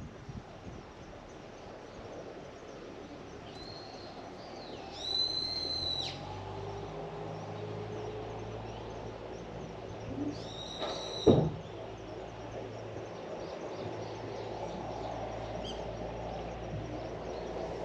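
A bird gives two shrill, drawn-out calls, each about a second long, about five seconds apart. A low steady hum, like a distant engine, comes in partway through, and there is a short knock near the second call.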